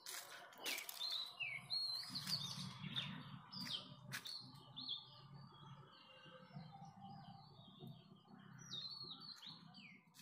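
Several birds chirping and calling in many short whistled notes, over a faint low hum. A few sharp clicks stand out in the first few seconds.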